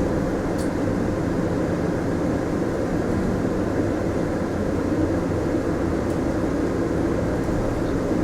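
Inside a Mitsubishi Fuso Aerostar city bus: steady engine and road noise as it runs along the route.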